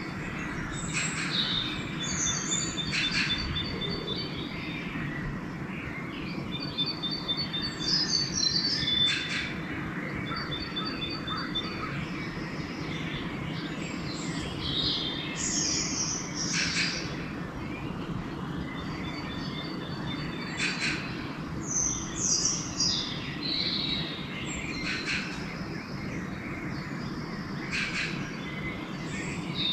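Several songbirds singing together in a dawn chorus, including rapid trills of evenly spaced notes repeated several times, over a steady low background rumble.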